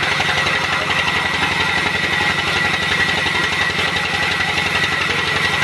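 A machine engine running steadily with a rapid, even low pulse, and a steady high whine over it.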